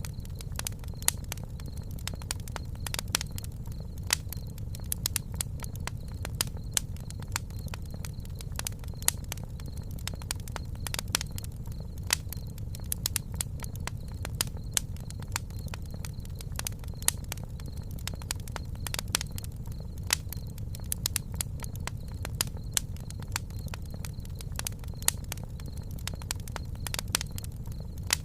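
Campfire crackling: irregular sharp snaps and pops over a low, steady rumble of burning wood.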